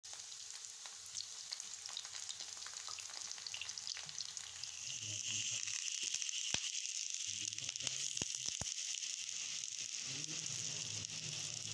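Eggplant slices sizzling as they fry in oil in a pan, the sizzle growing louder about halfway through. Near the middle come a few sharp clicks of the fork against the pan as the slices are turned.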